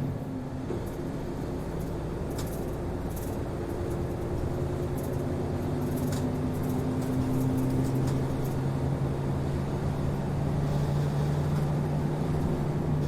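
City route bus driving along, its diesel engine humming steadily with slight changes in pitch, heard from inside the cabin, with light rattles now and then.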